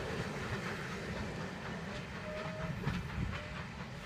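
BR Mark 1 passenger coaches rolling away along the track, their wheels rumbling and clacking over the rails, slowly fading as the last coach recedes.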